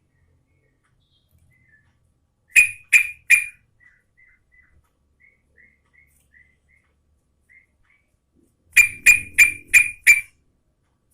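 Yellow-vented bulbul (trucukan) calling: a quick run of three loud, sharp notes, then a string of faint short chirps, then a run of five loud notes near the end.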